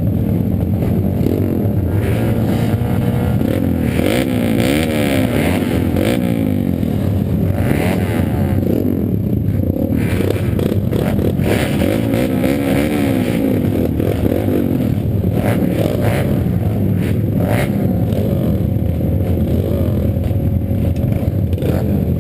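Several pit bikes racing on a motocross track, their small engines revving up and down over one another without pause.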